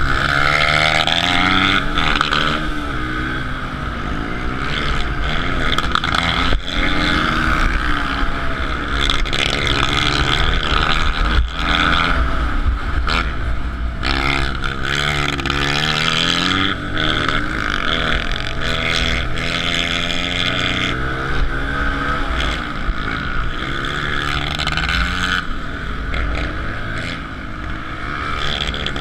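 Suzuki DR-Z125L pit bike's single-cylinder four-stroke engine racing, its pitch rising and falling over and over as the rider opens and closes the throttle and shifts.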